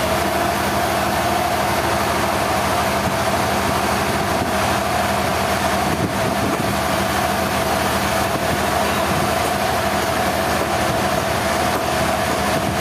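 Sawmill log saw running steadily with a constant whine, cutting through a trembesi log.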